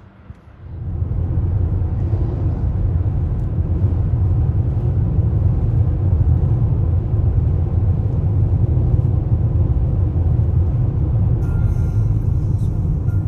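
Steady low road rumble of a car driving, starting abruptly less than a second in.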